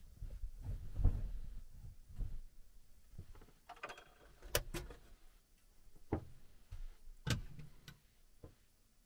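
Irregular low thuds and knocks with a few sharp clicks, about ten events spread over several seconds.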